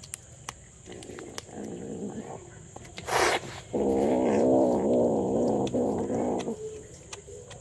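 Kitten meowing: a softer call, then a long, loud, wavering meow lasting about three seconds in the middle. Small clicks are scattered throughout.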